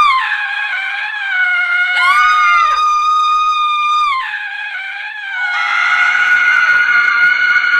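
A woman screaming: long, high-pitched held screams, one breaking off with a drop in pitch right at the start and another held for about two seconds before dropping away. A sustained scream starts about five and a half seconds in and keeps going.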